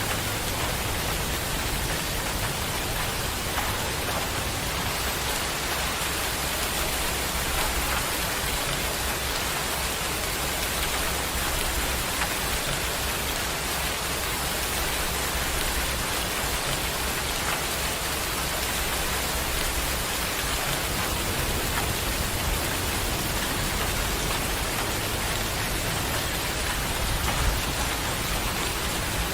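Steady rain falling on a surface, a dense even patter with no break.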